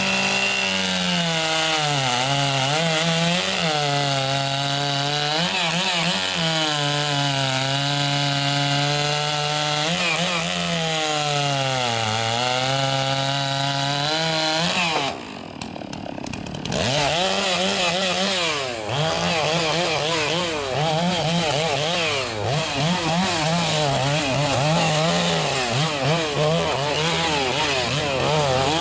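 Two-stroke chainsaw running at high revs, its pitch dipping again and again as the chain bites into wood under load. About fifteen seconds in it drops away for a moment, then runs on with the pitch rising and falling quickly as it keeps cutting.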